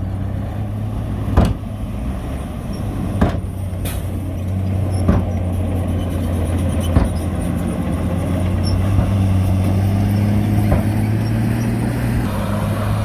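Diesel engine of heavy earthmoving machinery running steadily at a low pitch, with sharp clanks roughly every one to two seconds in the first seven seconds; the engine picks up slightly near the end.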